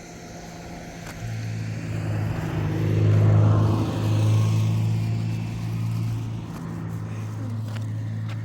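Engine running with a steady low hum, growing louder to a peak about three seconds in, then easing off.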